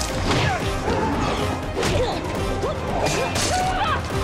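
Staged fight sound effects: several sharp hits and crashes with swishes, over a busy film score.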